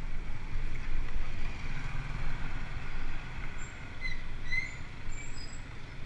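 Wind buffeting the microphone in uneven gusts, with a few short, high bird chirps in the second half.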